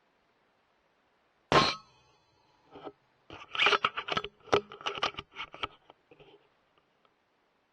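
A .25 air rifle shot with a sharp crack and a brief metallic ring about a second and a half in, followed a couple of seconds later by a rapid flurry of knocks and clatter lasting about two seconds.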